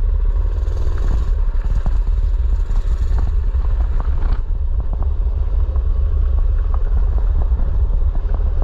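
Mini bike's small engine running, with a heavy low rumble and occasional short rattling clicks.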